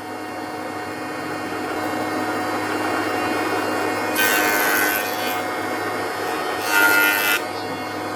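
Power tool running steadily on wood, biting in twice with a harsher, louder rasping hiss, about four seconds in and again near seven seconds.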